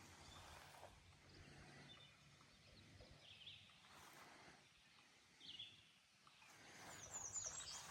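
Near silence with a few faint bird chirps, a little more frequent near the end.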